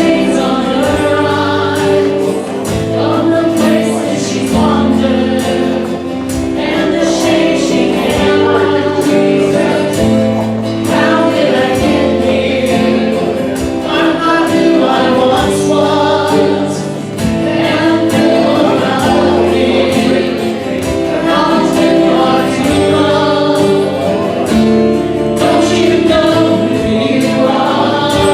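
A hymn sung by many voices together, with sustained chords held under the singing and changing every second or two.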